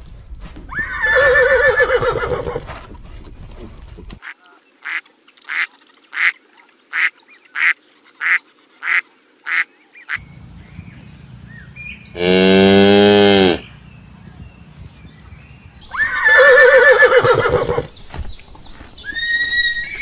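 A horse whinnies about a second in, and again near the end. In between come about ten short, evenly spaced calls and one long, low animal call.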